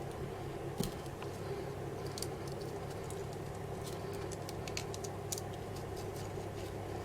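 Small scattered clicks and light scratching from hands working pearl-spray stems into a polystyrene bird form and its feathers, over a steady low hum; a sharper tick comes just under a second in.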